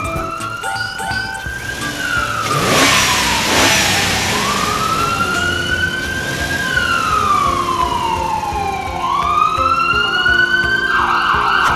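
Police siren wailing, its pitch slowly rising and falling through about two and a half cycles, with a brief noisy whoosh about three seconds in.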